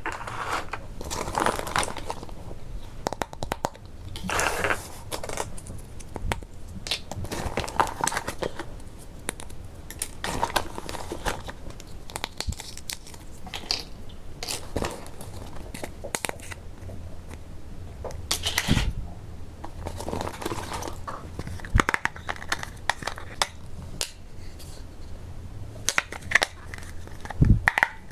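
Crinkling and rustling of plastic packaging, with sharp clicks and taps of hard plastic toy-kitchen parts being handled, on and off.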